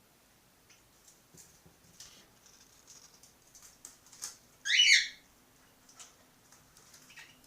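Cockatiel chick calling: one loud call of about half a second, about halfway through, and a fainter short one near the end, with soft ticks and rustles in between.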